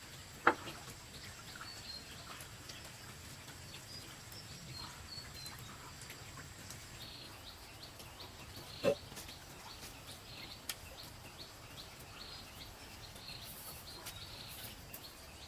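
Two sharp knocks about eight seconds apart, with a smaller click later, over a faint outdoor background with short high chirps.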